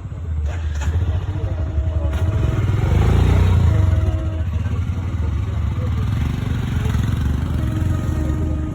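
A motor vehicle passing, swelling to its loudest about three seconds in over a steady low rumble, with faint voices.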